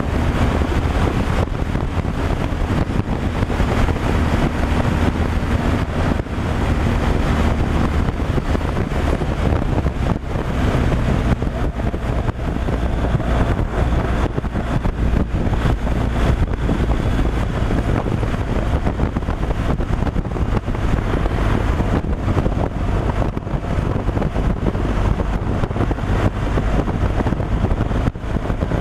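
Truck driving at road speed: a steady low engine drone mixed with road and wind noise.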